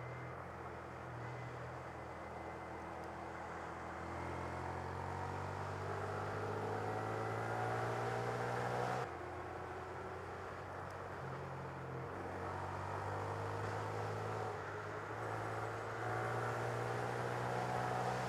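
Honda Grom 125's single-cylinder engine running under way. Its pitch climbs slowly, drops suddenly about nine seconds in, then climbs again.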